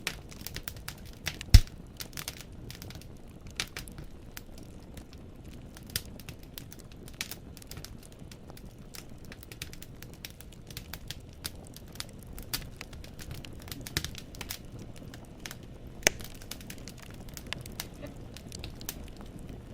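Wood burning in a fireplace, crackling with irregular sharp pops as the logs snap, over a low steady rumble of the flames. One loud pop about a second and a half in.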